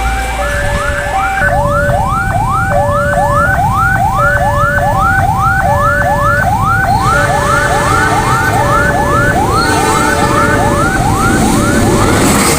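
Railway level-crossing warning alarm sounding: an electronic whoop that rises about twice a second, together with a steady two-note tone alternating between a lower and a higher pitch. A low rumble of heavy vehicles or an approaching train runs under it, and train noise swells near the end.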